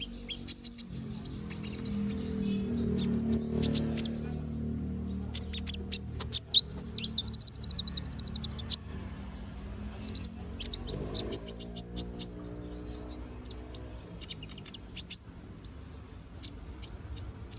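A kolibri ninja (konin) sunbird singing a fast, varied string of high, sharp chirps and rattling trills, the energetic full song that keepers call gacor. A lower, steady humming layer runs underneath.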